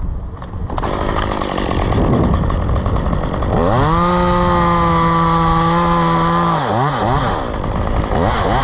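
Two-stroke chainsaw running: it revs up about a third of the way in, holds full throttle steadily for about three seconds, then drops and is blipped up and down several times.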